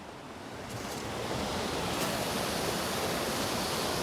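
Waterfall rushing: a steady wash of falling water that grows louder over the first second or two, then holds.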